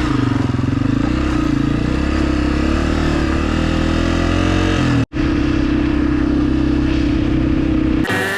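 Dirt bike engine running while riding, its pitch rising and falling with the throttle. The sound drops out for an instant about five seconds in, then the engine runs steady again.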